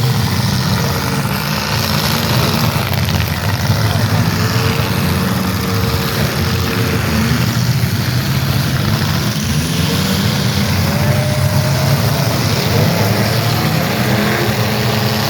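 Demolition derby car engines running loud and steady, with a dense low rumble and no clear single rev or crash.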